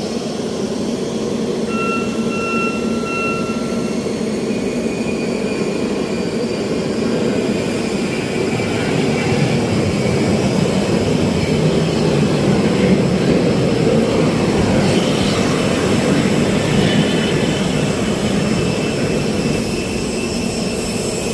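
Steady, loud mechanical noise with faint high whining tones, swelling slightly in the middle; two short steady tones sound briefly about two seconds in.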